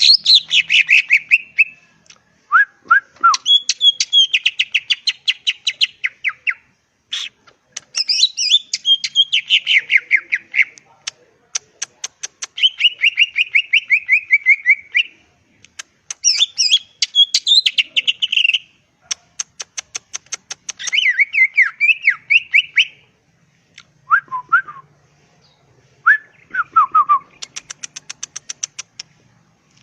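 Green leafbird (cucak ijo) singing loudly and continuously: rapid whistled and trilled phrases of one to three seconds, separated by short pauses. The phrases are mixed with a few lower slurred notes and fast runs of dry ticking notes.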